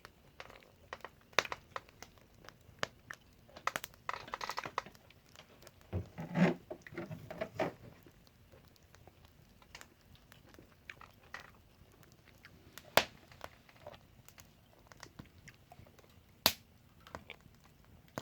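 A person eating: chewing, with scattered sharp clicks of tableware and a few short rustling handling noises.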